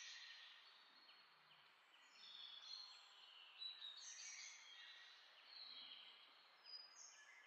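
Faint birdsong: a busy run of high chirps and twitters over a low hiss.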